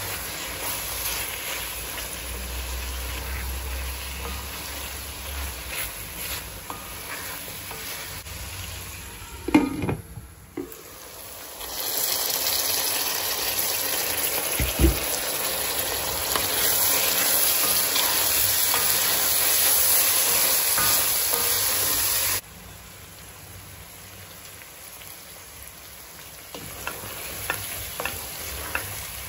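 Minced meat (keema) with potatoes frying and sizzling in a pot while being stirred, with a few knocks from the spoon. The sizzle grows louder for about ten seconds in the middle, then drops off suddenly, with small clicks near the end.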